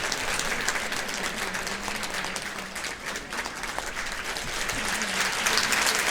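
Audience applauding in a concert hall, growing louder near the end.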